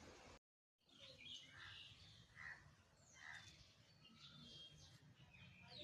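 Faint birds chirping here and there. Before them is a steady hiss that cuts to dead silence for a moment about half a second in.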